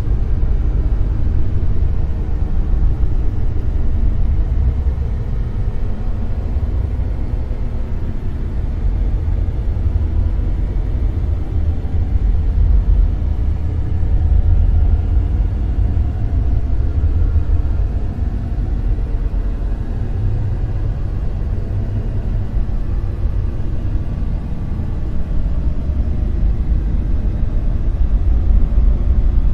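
Dark noise: a steady, deep rumbling hiss weighted heavily toward the low end, rising and falling in slow, gentle swells.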